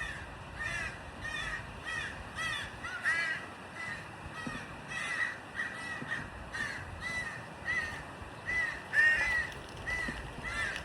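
Birds calling over and over: short arched calls a few times a second, some overlapping.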